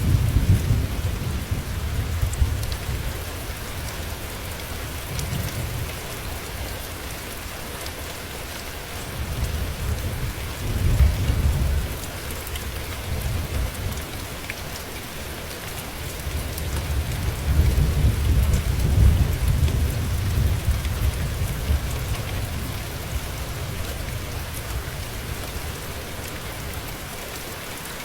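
Steady rain falling, with low rolling thunder rumbling three times: at the start, near the middle and again about two-thirds of the way through.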